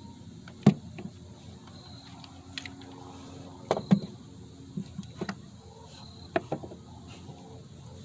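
Scattered sharp knocks and clatter of wooden toolbox parts being handled and set in place, a few single knocks with a quick pair in the middle and another pair near the end.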